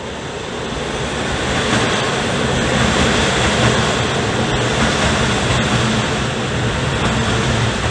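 Diesel railcar under way: the diesel engine drone over steady rolling noise, getting louder over the first two seconds and then holding steady.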